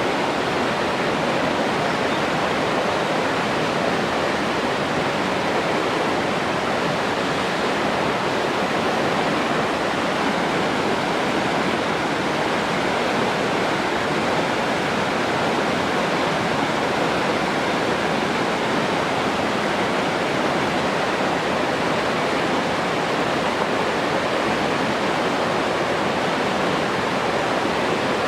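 Steady rushing of running water, an even unbroken wash of noise with no changes.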